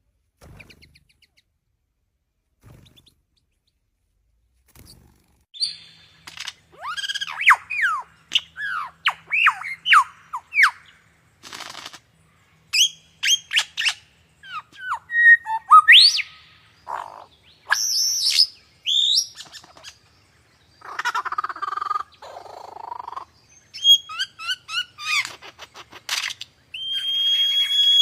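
Birds calling, starting about five seconds in: a varied run of quick chirps, sliding whistled notes and a few harsher calls, changing in character every few seconds.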